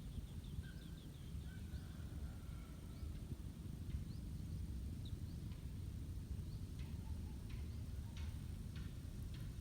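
Outdoor ambience: a steady low rumble with scattered faint short clicks and high chirps.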